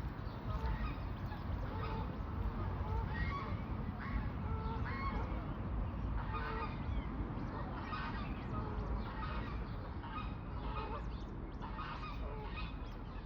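Coots calling: a run of short repeated calls, several birds overlapping more often in the second half, over a steady low rumble.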